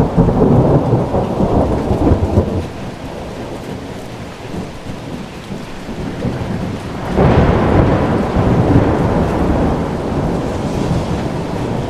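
Thunderstorm: steady heavy rain with rolling thunder, one rumble dying away over the first couple of seconds and a second clap breaking in suddenly about seven seconds in and rumbling on.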